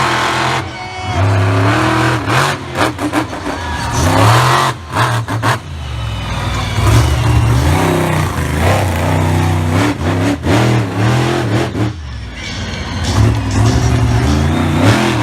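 Monster truck engine revving hard, its pitch climbing and dropping repeatedly as the throttle is blipped and held, with several sharp knocks or cracks along the way.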